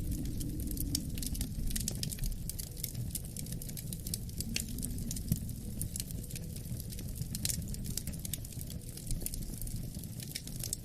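Wood fire crackling in a fireplace, with many small sharp pops, over a steady low rumble of wind.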